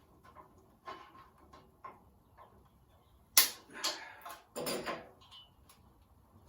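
Workshop handling noises from working on the engine: a few light clicks and taps, then a sharp knock about three and a half seconds in, followed by two short bursts of clattering.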